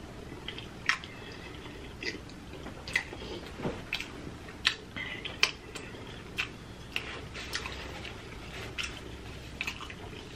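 Close-miked mouth-eating sounds: chewing seafood boil with wet lip smacks and irregular sharp clicks, about one or two a second.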